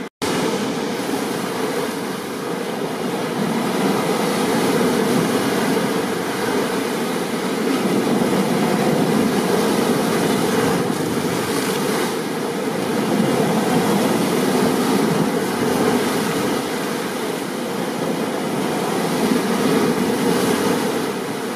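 Steady rush of rain and breaking surf in a storm, swelling and easing every few seconds. There is a split-second dropout right at the start.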